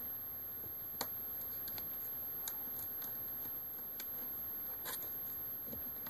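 A few scattered small clicks and taps of laptop screws and plastic parts being handled and fitted during screen reassembly, over a steady hiss.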